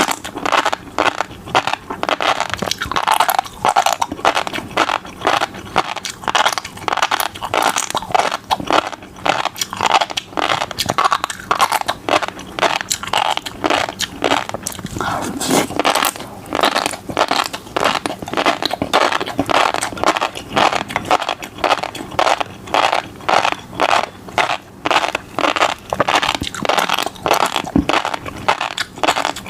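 Close-miked eating of fish roe and caviar: a dense run of quick crackling pops, several a second, as the eggs burst during chewing.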